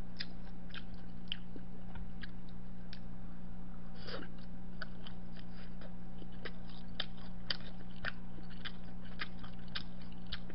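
A person chewing a mouthful of soondae (Korean blood sausage) dipped in ssamjang, close to the microphone: many small wet mouth clicks and smacks over a steady low hum.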